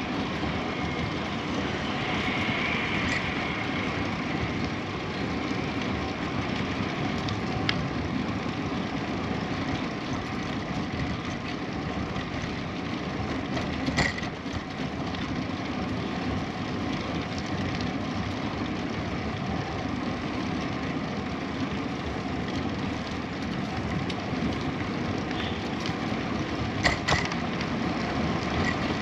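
Steady rolling noise of a bicycle on the move, with a few short sharp clicks and knocks, the loudest about halfway through and two more near the end.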